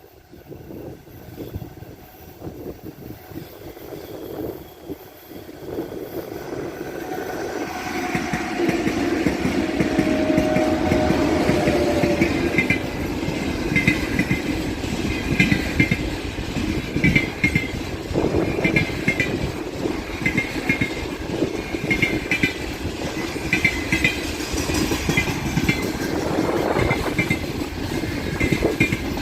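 An Ermak electric locomotive approaching with a freight train, growing louder over the first several seconds, with a brief whine about a third of the way in. The wagons then pass with a steady clickety-clack of wheels over rail joints.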